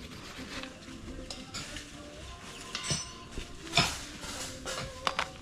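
Metal cooking pot and utensils knocking and clinking a few times, the loudest clank about four seconds in, over faint background music.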